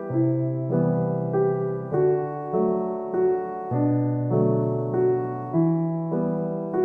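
Slow, gentle piano music, a new note or chord struck about every half second.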